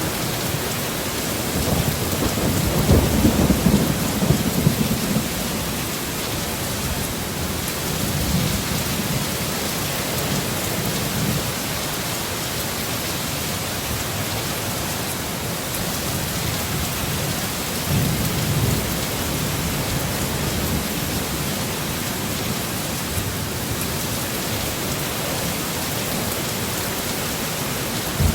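Steady heavy rain, a dense even downpour, with several low rolls of thunder rumbling through it, the longest a few seconds in.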